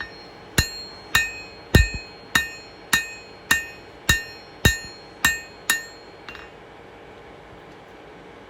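Hand hammer striking hot 1095 high carbon steel on an anvil, drawing out a point: a steady run of about ten blows, roughly two a second, each with a short metallic ring. The blows stop about six seconds in.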